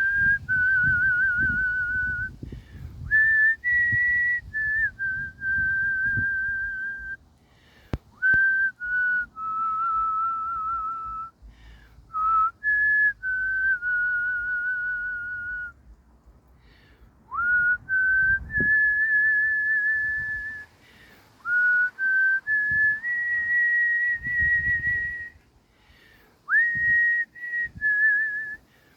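A person whistling a slow tune: long held notes stepping up and down in pitch, some with a wavering vibrato, in phrases broken by short pauses.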